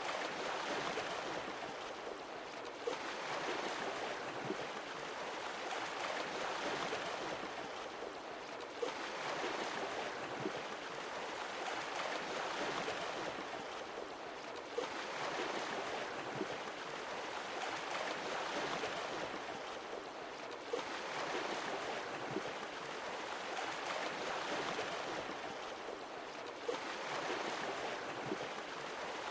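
Sea waves breaking and washing back, the surf swelling and falling away about every six seconds.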